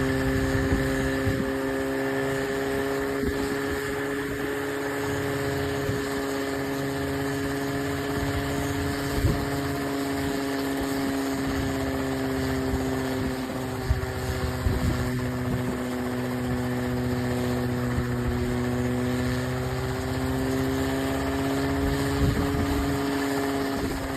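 Homemade coaxial helicopter's motor and rotors running steadily, a humming drone whose pitch drifts slightly up and down, with a few faint clicks.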